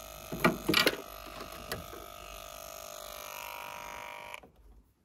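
A steady electrical buzz, with several light clicks and knocks in the first two seconds; the buzz cuts off suddenly a little after four seconds in.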